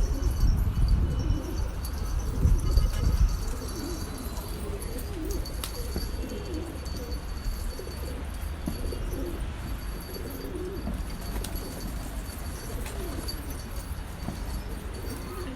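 Domestic pigeons cooing over and over, several birds overlapping. A low rumbling noise is loudest in the first few seconds.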